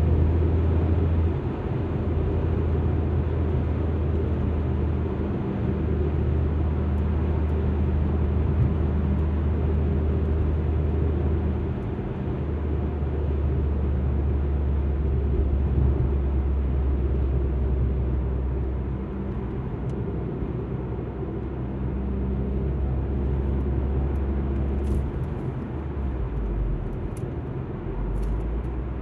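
Alfa Romeo MiTo driving on the road, with its engine's low drone and tyre and road noise running steadily. The drone steps in pitch a few times as the car changes speed or gear.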